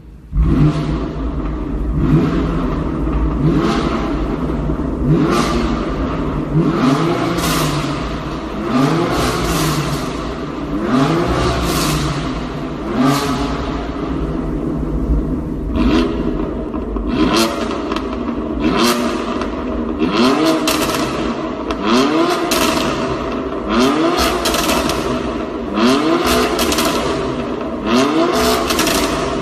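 BMW M4 GTS twin-turbo straight-six being revved in repeated throttle blips, the pitch rising and falling about once every one and a half seconds, each blip with a burst of crackling noise.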